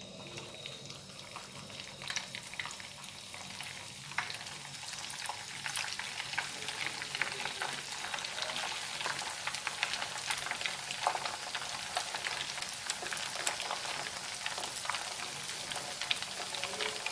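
Custard-filled gabin crackers deep-frying in hot oil in a frying pan: steady sizzling with dense crackling. It grows louder over the first few seconds as more pieces go into the oil.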